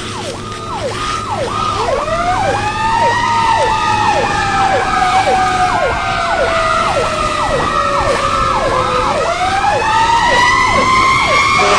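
Two emergency-vehicle sirens sounding at once over a steady low hum. One repeats a quick falling yelp about two and a half times a second. The other is a slow wail that rises, sinks gradually, and rises again near the end.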